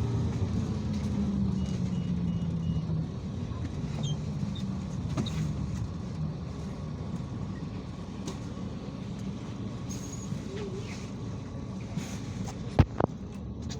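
IVECO Crossway 13M PRO city bus running, heard from inside: a steady low engine hum with small rattles and clicks, and one sharp knock near the end.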